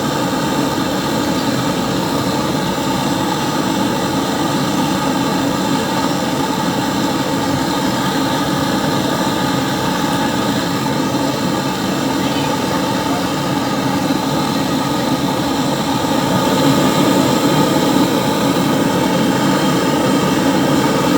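Gas brazing torch burning with a steady, continuous rushing flame while a refrigerator's copper pipe is brazed, a little louder in the last few seconds.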